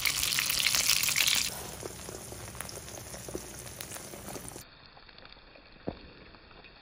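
Beaten egg and shrimp frying in hot oil in a frying pan: a loud sizzle for the first second and a half, then a quieter sizzle with scattered crackles and pops. A single sharp click comes near the end.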